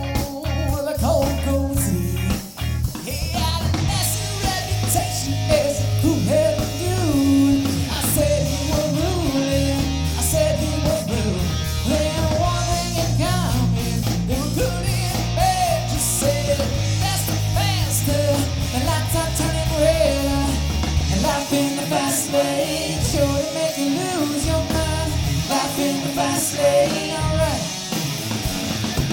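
Live rock cover band playing: a lead singer over electric guitars, bass and drums. The low bass thins out about two-thirds of the way through.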